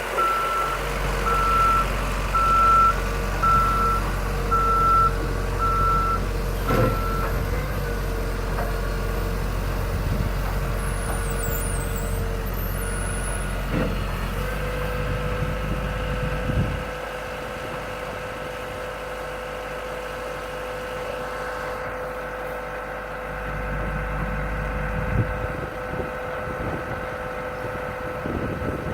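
Cat RT80 telehandler running, its reversing alarm beeping steadily a little faster than once a second. The beeping stops about seven seconds in and the engine keeps running, dropping somewhat in level about two-thirds of the way through.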